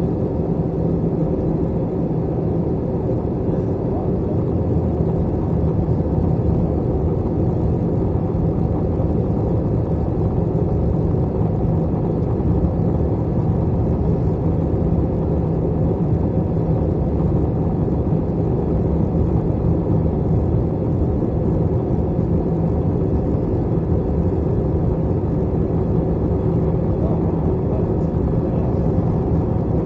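Steady cabin noise inside an Airbus A321 airliner: an even rush of engine and airflow noise with a constant low hum, unchanging throughout.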